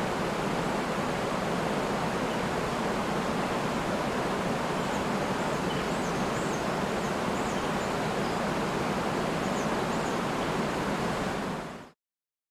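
Steady rushing of a river and waterfall, with a few faint, high bird chirps in the background. The sound fades out quickly near the end and stops dead.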